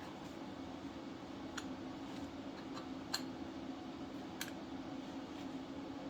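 A few light, sharp clicks, spread over a few seconds, on top of a steady low hum.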